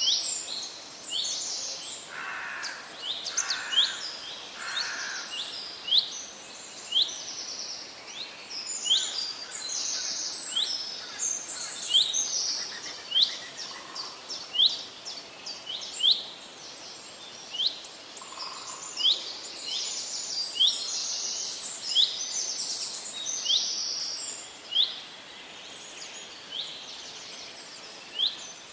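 Many small birds chirping and calling over one another, a dense chorus of short, sharp, sweeping notes several times a second. A few lower calls come in here and there.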